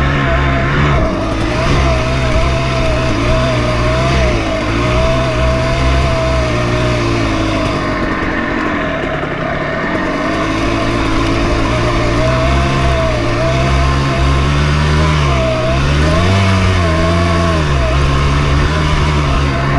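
Dirt bike engine running while ridden, its pitch rising and falling with the throttle. It eases off about eight to ten seconds in and revs up again around sixteen seconds.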